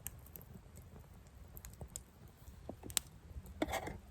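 Campfire embers crackling faintly with scattered small ticks, and one sharper pop about three seconds in.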